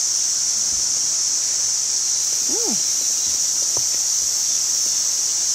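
A steady, shrill chorus of insects singing in the trees, with no break. About two and a half seconds in there is one short rising-and-falling call.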